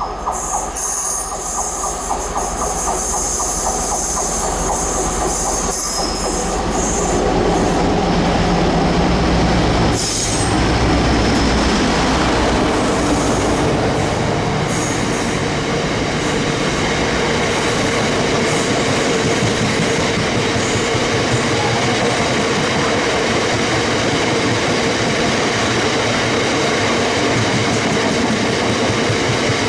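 A train running past on the rails, with high wheel squeal over the first few seconds, then a steady rumble and rush of wheels that grows a little louder and holds.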